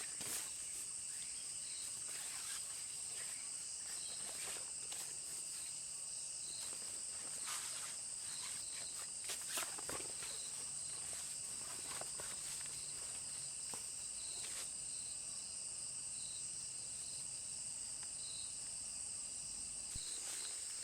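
Insects in a steady high-pitched chorus, with short chirps repeating every second or two and a few faint ticks and rustles.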